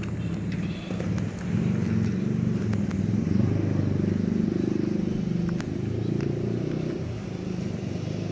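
Large diesel engine running, picking up speed about a second and a half in and easing back near the end.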